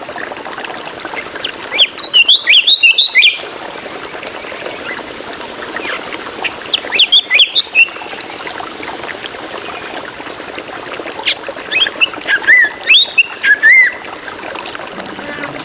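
Drongo singing in three bursts of quick, varied, jumping whistled and harsh notes, over a steady background hiss.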